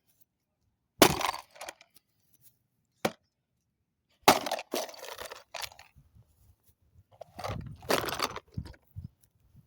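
A plastic toy microwave being smashed: a series of hard blows, about one a second to a few seconds apart, each with cracking plastic and clinking, rattling pieces.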